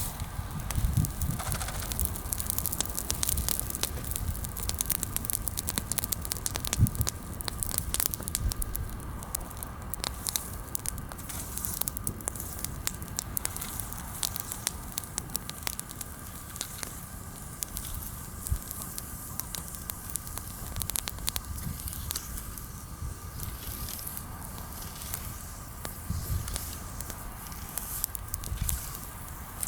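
Bonfire of freshly pruned branches, much of it green wood, crackling with many sharp snaps and pops scattered through, and a few low thumps.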